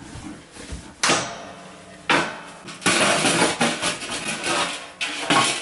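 Metal clanks and rattling from a wood-burning stove as it is handled: a sharp hit about a second in, another about two seconds in, a stretch of rattling clatter, and one more clank near the end.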